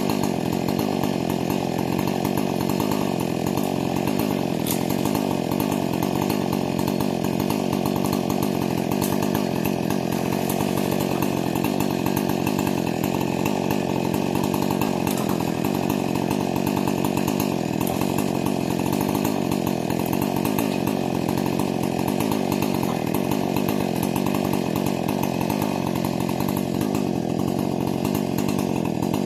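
Husqvarna 460 two-stroke chainsaw, with a modified carburetor and muffler, running steadily at high revs for the whole stretch, as in a long cutting pull through wood during break-in.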